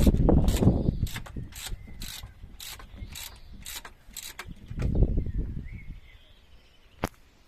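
Ratchet wrench clicking in a steady rhythm, two to three clicks a second, as bolts on the truck engine's intake manifold are undone; the clicking stops about four and a half seconds in. Low rumbling knocks of metal being handled near the start and again about five seconds in.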